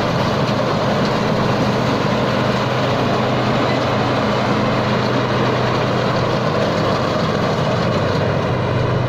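Thai Seng rice combine harvester working a muddy paddy: its diesel engine running steadily under load with the harvesting machinery's dense clatter and hiss, the engine note shifting slightly a couple of times.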